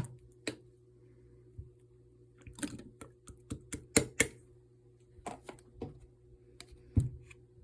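A series of irregular sharp clicks and taps in scattered clusters, over a faint steady hum.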